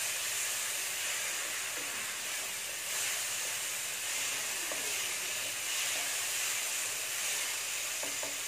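Sliced vegetables sizzling in hot oil in a non-stick kadai with a steady hiss while they are stir-fried.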